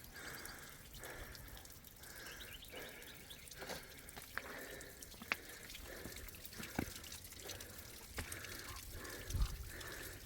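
Water dripping: scattered single drops, one every second or two, over a faint steady hiss.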